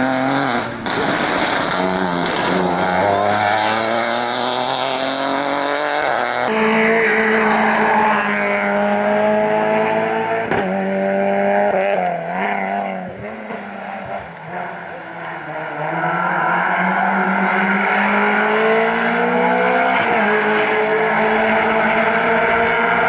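Rally car engine revving hard up through the gears, its pitch climbing and dropping back at each shift. It eases off and goes quieter for a few seconds in the middle, then pulls strongly again.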